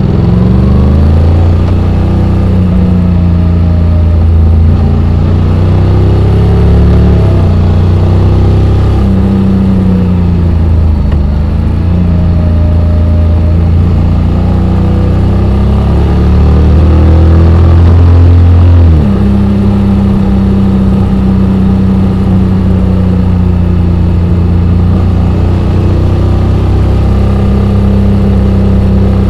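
Honda X-ADV 750's parallel-twin engine running while riding, its note rising and falling with the throttle. It changes suddenly about two-thirds of the way through, like a gear change.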